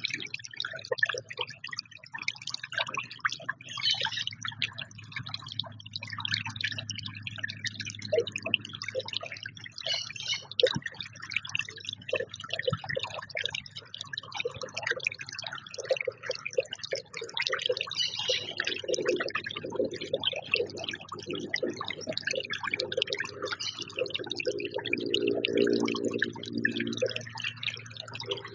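Small birds chipping and chirping at a feeder, many short sharp calls overlapping throughout, over a low steady hum; a lower pitched sound joins in during the second half.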